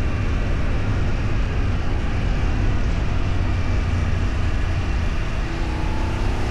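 Steady low rumble and road noise of a vehicle travelling on the road, with faint steady tones joining near the end.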